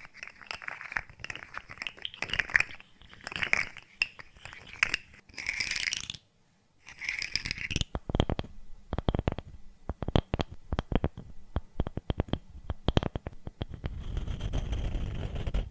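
A run of close-miked ASMR trigger sounds made by handling small objects: crackling, tapping and clicking, a brief silent break about six seconds in, then a quick series of sharp taps and clicks, then a low rustling near the end.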